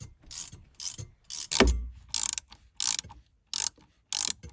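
Ratchet wrench worked in short strokes, a burst of clicking with each swing, while the fuel pump on the sailboat's engine is being worked on. There is a heavier knock about a second and a half in.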